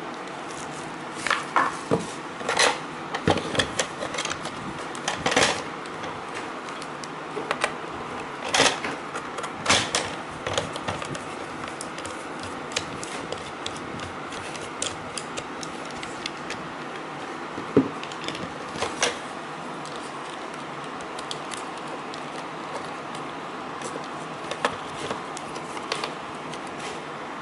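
Irregular clicks and knocks of the Braava 380j robot mop's plastic housing and battery being handled during a battery swap, over a steady hiss.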